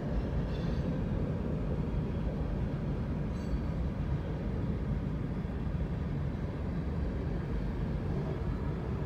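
Freight train of covered hopper cars rolling past, a steady low rumble of wheels on the rails.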